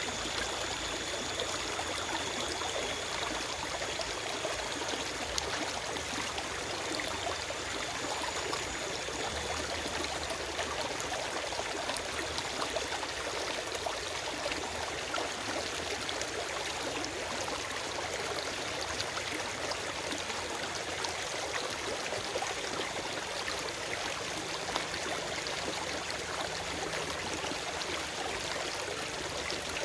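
Forest stream flowing: a steady, even rush of running water, with no birdsong.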